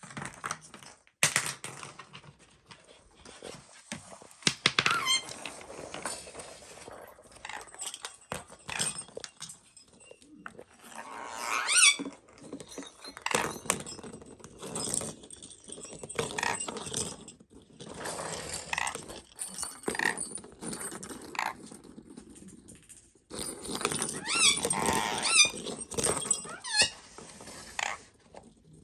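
Parrot chattering and squeaking in short calls that slide up and down in pitch, the loudest about 12 seconds in and again near 25 seconds, among scattered clicks and knocks.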